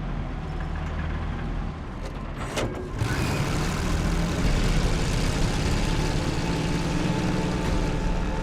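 Heavy truck engine running hard under acceleration, getting louder and noisier about three seconds in.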